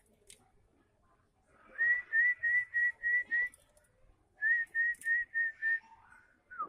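Two runs of short whistled notes on one pitch, each note slightly rising, six in the first run and five in the second, about three a second.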